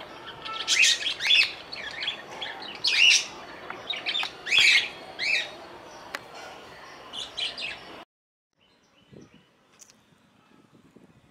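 Small birds chirping in quick, repeated high calls that stop abruptly about eight seconds in, leaving only faint scattered noises.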